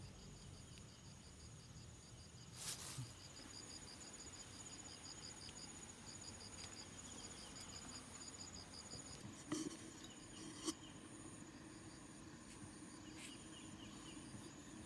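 Faint insect chorus: insects chirping in steady, evenly repeating high pulses, with a few sharp clicks or knocks, the first about three seconds in and two more near the middle.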